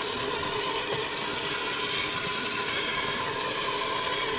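Kyosho Blizzard RC snowcat driving, its twin 380 electric motors and pinion gearboxes whirring steadily with a faint steady whine.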